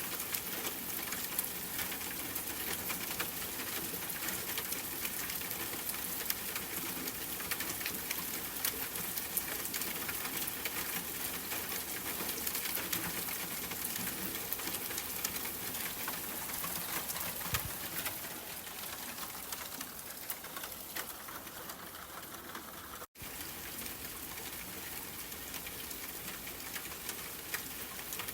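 Steady rain pattering, with many fine drop ticks over an even hiss. About 23 seconds in it cuts out for an instant and comes back slightly duller, like a loop seam.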